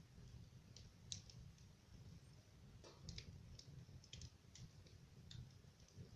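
Wood fire crackling in a fireplace: faint, irregular sharp pops and crackles, a dozen or so, over a low steady rumble.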